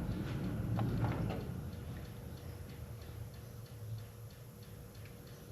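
Faint, regular ticking, about three ticks a second, with a faint steady hum that comes in about two seconds in.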